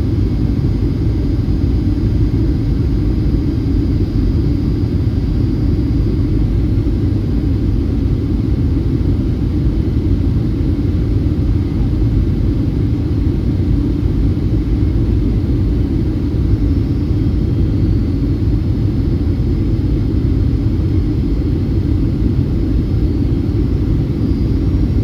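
Steady low rumble inside the cabin of a Boeing 757-351 on approach: airflow and its Pratt & Whitney PW2043 turbofan engines, with a faint high whine.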